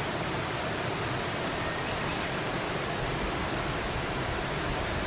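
Steady rush of flowing water, an even hiss with no change, and a faint short high chirp about four seconds in.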